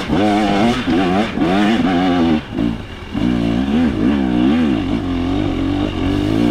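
KTM 300 XC two-stroke dirt bike engine revving up and down again and again under load on a hill climb, with a brief drop in revs about two and a half seconds in.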